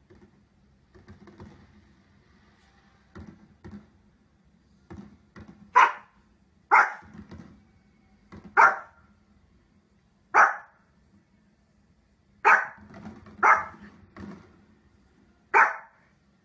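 A dog barking in single, loud, separate barks, about seven of them one to two seconds apart, beginning some six seconds in, with a few softer sounds before and between them.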